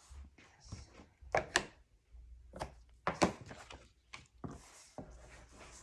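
Cardstock pieces being handled on a work table: several sharp taps and knocks against the surface, the loudest about a second and a half in and about three seconds in, between brief rustles of paper.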